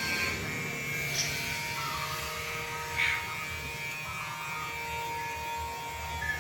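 A steady buzz runs throughout, with a few short, faint calls from a jalak (starling), the loudest about three seconds in.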